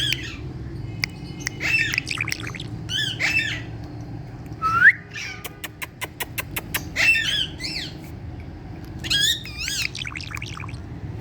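Indian ringneck parakeet chattering in short squawks and chirps that slide up and down in pitch, with a rapid run of clicks about six seconds in.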